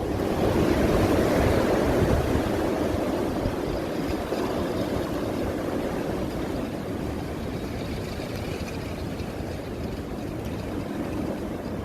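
Strong blizzard wind blowing hard and buffeting the microphone. It swells in a gust over the first two seconds, then holds a steady rush.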